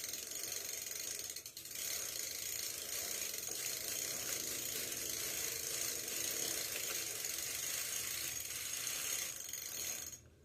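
Bicycle freewheel pawls clicking steadily as the cranks and chain are turned while chain oil is worked in, with a brief pause about one and a half seconds in and a stop near the end.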